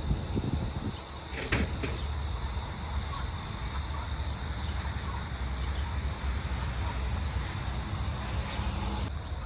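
Steady low rumble of highway traffic running alongside the farm, with a single sharp click about a second and a half in.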